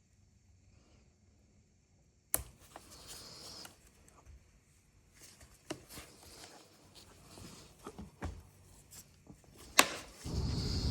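Handling and tool sounds from taking apart a DeWalt chainsaw: a sharp click about two seconds in and another near the end, with light taps and rubbing between them. A louder rustling noise starts just before the end.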